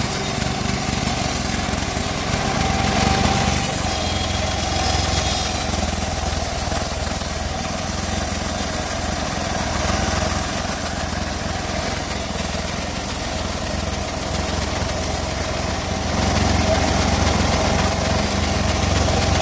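Engine of a gergaji selendang, an engine-driven log saw, running steadily while sawing teak wood. It gets a little louder about sixteen seconds in.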